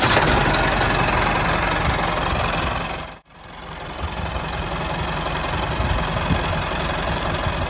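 Small engine of a handmade mini tractor running steadily. The sound drops out briefly a little over three seconds in, then goes on again.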